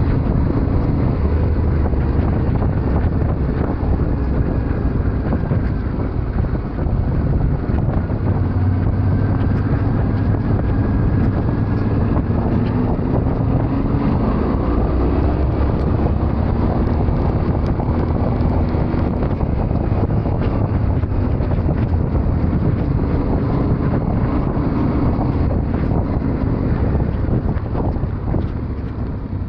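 Yamaha Ténéré 700's parallel-twin engine running while riding, its pitch rising and falling with the throttle, under heavy wind noise on the microphone.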